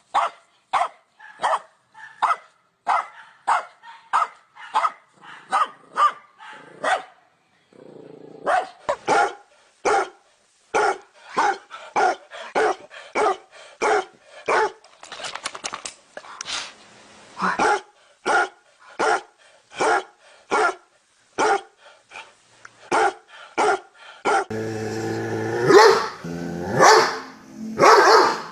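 Dogs barking in a long run of sharp barks, about two a second, with a short pause about a quarter of the way through. Near the end a noisier recording takes over, with longer, drawn-out barks.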